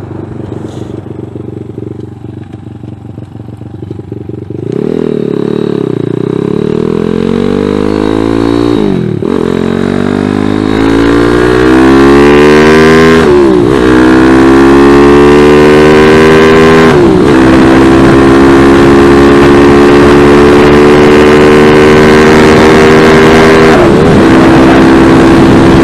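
Carbureted Zongshen ZS190 single-cylinder motorcycle engine at low revs for about four seconds, then pulling away hard and accelerating through the gears. Its pitch climbs in each gear and drops at four upshifts. Wind rushes over the microphone as speed builds.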